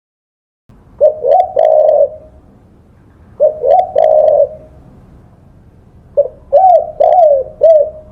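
Spotted dove (tekukur) cooing: two phrases of two short notes and a longer coo, then a quicker run of five short coos near the end. The calls begin about a second in.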